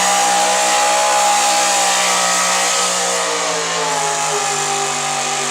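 Gasoline engine of an altered stock 4x4 pulling truck running at high revs under load. Its pitch holds steady, then sags slightly about three seconds in.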